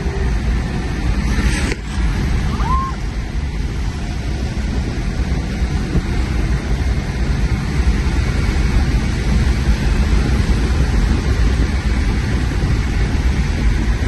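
A car driving hard, its engine and road noise making a steady loud rumble, with a sharp click a couple of seconds in.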